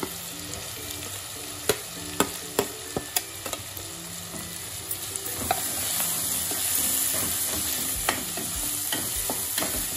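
Oil sizzling in a kadhai with a tempering of cumin, mustard seeds and spice paste, and a steel spoon clinking several times as chopped onions are scraped into the pan. The frying grows louder about halfway through as the onions hit the hot oil and are stirred.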